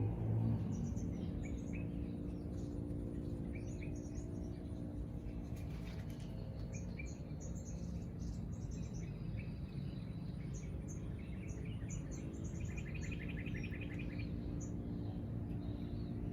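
Small birds chirping in short high notes throughout, with a rapid trill of repeated notes about thirteen seconds in, over a steady low background hum.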